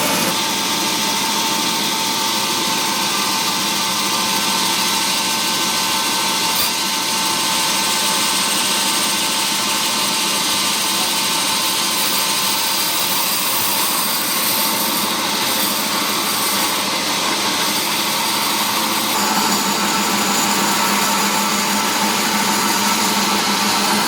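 Woodworking machinery in a mahogany-processing mill, running steadily with a held whine. The sound shifts slightly a few seconds before the end.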